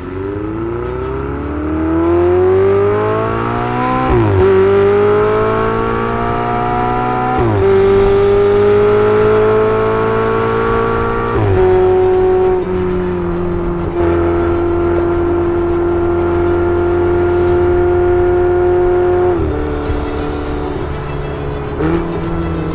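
Ferrari 488 Spider's 3.9-litre twin-turbo V8 accelerating through the gears: the engine note climbs and drops sharply at three upshifts a few seconds apart, then holds a steady pitch, falling off again near the end.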